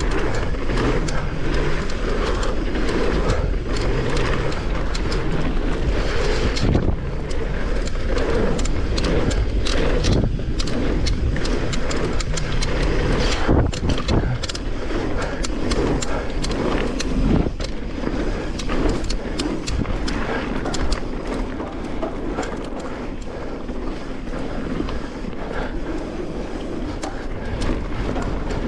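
Mountain bike ridden along a dirt trail: tyres rolling steadily, with many quick clicks and knocks as the bike rattles over the ground.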